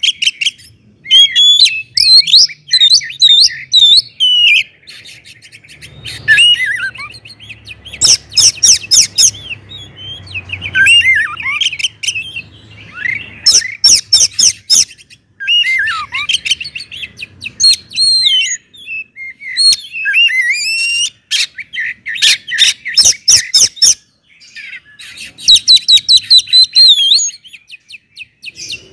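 Oriental magpie-robin (kacer) singing loudly in the full-song style fanciers call ngeplong: phrase after phrase of varied whistles and chirps, broken up by runs of rapid, sharp clicking notes, with short pauses between phrases.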